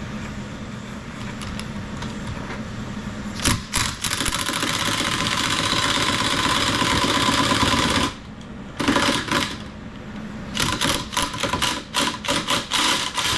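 A torch flame hissing steadily, louder from about four seconds in, shuts off at about eight seconds. It is followed by an impact wrench fired in a rapid series of short blips on a seized, rusted exhaust manifold bolt, whose head strips instead of turning.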